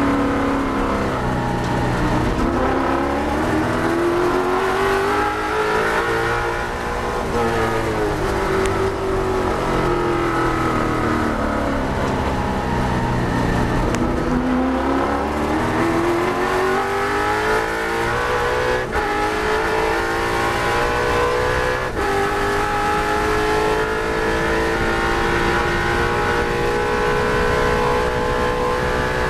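Holden HQ Monaro's V8 race engine heard from inside the car under hard acceleration. The revs rise, then fall away as the car slows for a corner about halfway through, then climb steadily as it pulls up to high speed. Two brief clicks come in the last third.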